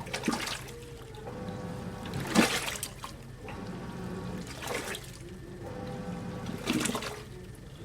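AQUA 5 kg coin-operated washing machine agitating its load: water swishes in a surge about every two seconds, over a steady motor hum.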